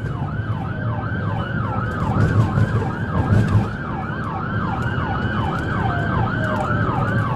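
Police cruiser siren on yelp, a rapid falling sweep repeating about three times a second, with a second, slower siren tone gliding gradually downward behind it. Low engine and road rumble runs underneath.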